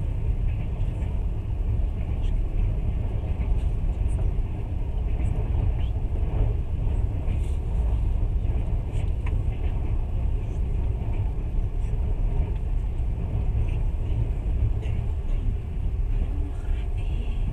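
Passenger train running along the track, heard from inside the carriage: a steady low rumble of wheels and carriage, with occasional faint clicks.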